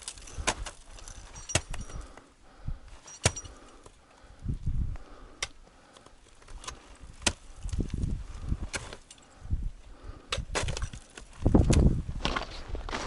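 A climber walking in snow: irregular low thuds of footfalls with sharp clicks and clinks of gear, the heaviest steps about eleven to twelve seconds in.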